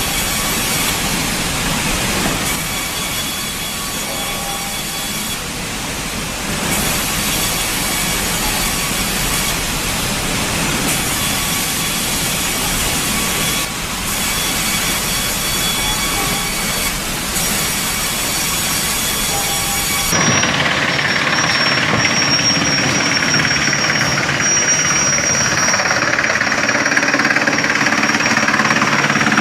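Heavy machinery running steadily, a dense mechanical noise. About twenty seconds in it changes abruptly to a different engine with a low steady drone and a thin high whine.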